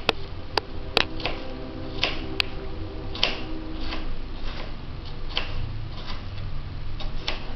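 Paring knife cutting apple slices into small pieces on a cutting board: irregular sharp knocks of the blade meeting the board, about one or two a second.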